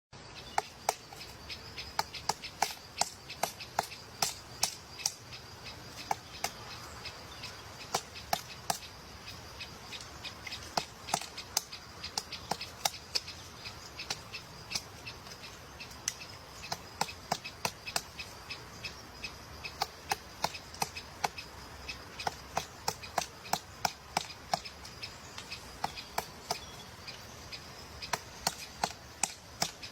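Many sharp clicks or taps at irregular intervals, often several a second, over a faint steady high-pitched drone.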